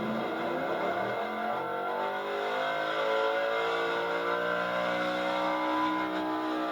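Altered gas pulling truck's engine running hard, its revs climbing steadily from about two seconds in.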